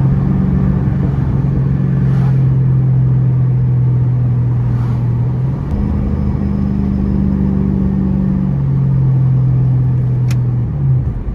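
2006 Ford Mustang running through a Roush Extreme axle-back exhaust while driving, a steady deep exhaust drone. Its pitch steps up about six seconds in and drops back to the lower note a couple of seconds later.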